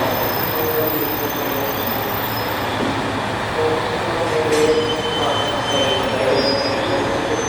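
Aoimori Railway electric train rolling into the platform, its wheels rumbling with faint squeals, and a short click about four and a half seconds in.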